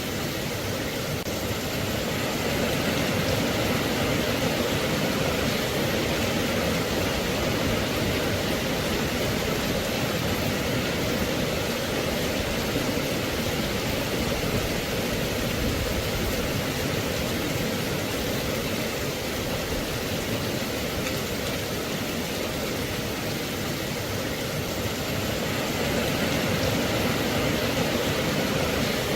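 Rain falling steadily, an even hiss with no separate drops standing out.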